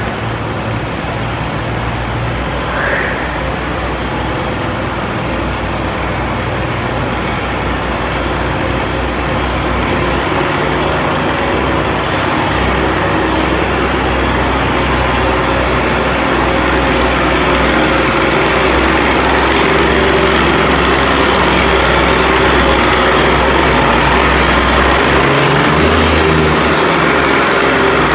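Antique pulling tractor's engine running hard under load as it pulls the sled, a steady loud drone with a deep rumble that grows louder through the second half.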